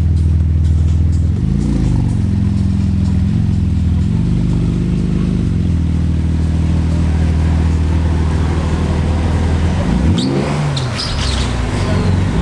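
Car engine idling steadily, with a few short throttle blips that rise and fall in pitch, then a sharper rev about ten seconds in.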